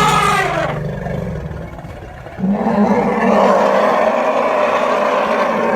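A large animal calling loudly. A call with a falling pitch fades out within the first second, then a long, steady call starts about two and a half seconds in.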